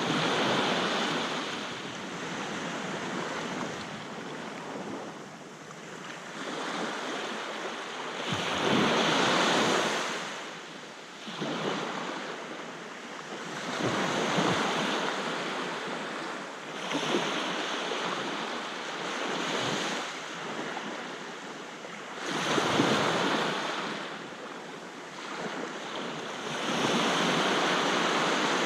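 Sea waves breaking on a shore, the surf swelling and washing back in surges every few seconds, with some wind on the microphone.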